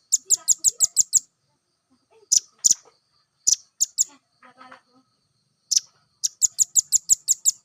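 Nuthatch calling: sharp, high chip notes, some single and spaced a few tenths of a second apart, others in quick runs of about seven chips in a second, one run at the start and another near the end.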